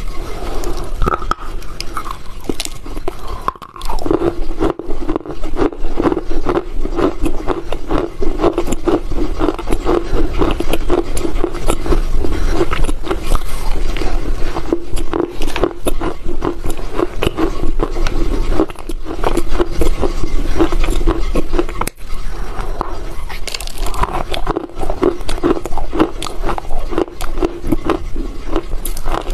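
Close-miked crunching as a dry block of Chinese loess (compacted earth) is bitten and chewed: a dense run of gritty cracks and crackles with a few short pauses.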